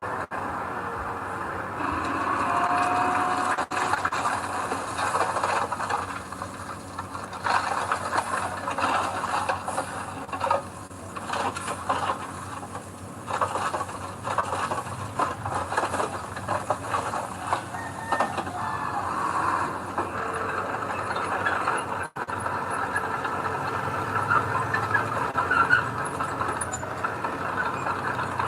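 Earthmoving machinery at work: an engine running with irregular metallic squealing and rattling. The sound breaks off abruptly twice, at about four seconds and at about twenty-two seconds.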